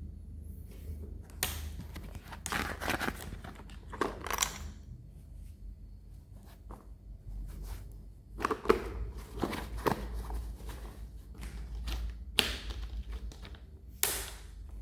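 Hands handling toy packaging: several bursts of rustling and crinkling plastic, each about a second long, with a few sharp knocks among them.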